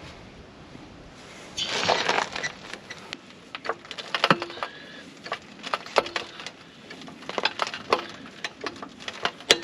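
A jack being worked under a tractor on a wooden block: a scraping rush about a second and a half in, then a run of irregular sharp clicks and knocks, some with a short metallic ring, as the tractor is raised.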